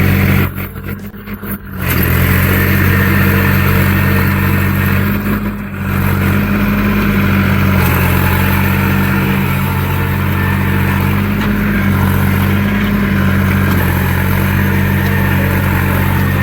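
Tractor diesel engine running at a steady pitch, with the sound cutting out briefly twice in the first six seconds.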